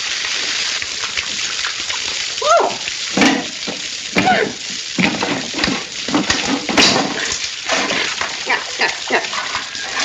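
Water spraying and gushing steadily from a broken pipe, with a few sharp knocks about three seconds in and near seven seconds.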